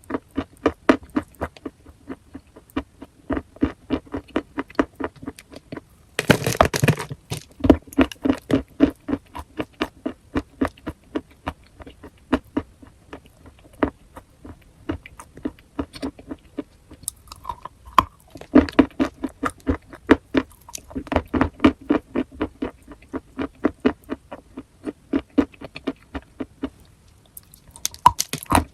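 Close-miked chewing and crunching of chalk: a rapid run of crisp crunches, several a second, with one louder, longer crunch about six seconds in.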